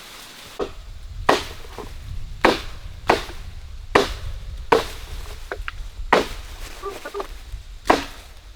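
Wood being chopped with a blade, about eight sharp strikes at an uneven pace of roughly one a second.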